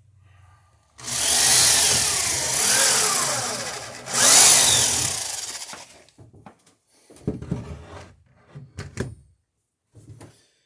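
A power tool running in two bursts, the first about three seconds long and the second about two, its pitch sliding up and down as it runs, followed by a few scattered knocks and clatter.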